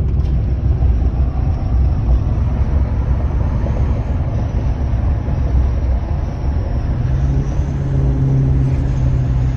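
Duramax LBZ 6.6 L V8 turbo-diesel running through a straight 5-inch exhaust with no muffler, a loud low rumble with the turbo's exhaust brake engaged, slowing the truck. About seven seconds in the note settles into a steadier drone.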